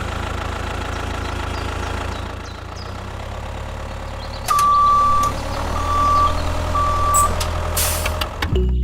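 Truck engine running steadily, with a reversing alarm beeping three times about halfway through, the first beep longer than the other two.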